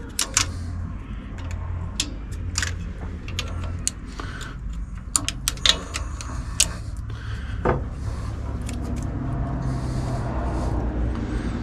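Scattered sharp metal clicks and clinks of hand tools and carburettor parts being handled during a carburettor gasket change, over a steady low hum.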